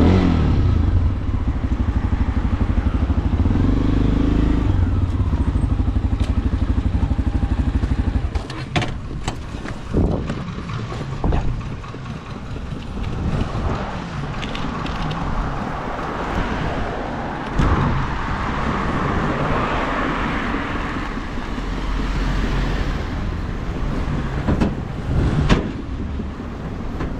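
A vehicle engine runs steadily for about eight seconds, then stops. After that comes a mixed road-traffic background with several sharp knocks.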